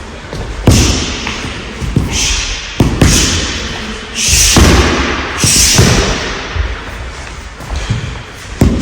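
Karate punches and kicks thudding against a rolled training mat: a series of heavy, irregularly spaced thuds, the hardest clustered in the middle, with a hiss after several of them.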